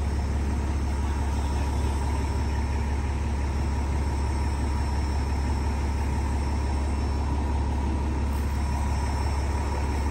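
A vehicle engine idling: a steady low hum with a faint, even higher tone above it.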